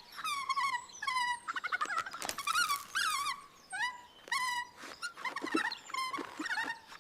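A baby monkey's high-pitched squeaks and chattering cries, as a cartoon voice: a quick series of short calls that glide up and down, with a rapid trilled chatter about two to three seconds in.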